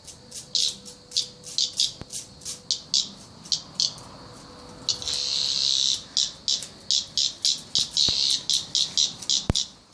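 A cicada giving rapid distress buzzes, short high rasping bursts at about three a second, with one unbroken buzz lasting about a second midway through. The insect has been mauled by a dog and is dying. A few sharp clicks sound among the buzzes.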